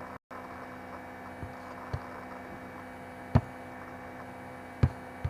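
Steady electrical mains hum with several tones, broken by a few short knocks, the loudest a little past the middle.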